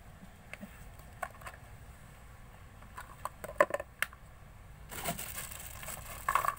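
Slime being squished and mixed by hand, giving scattered sticky clicks and pops, one sharper pop near the middle, then a denser stretch of crackling in the last second or so.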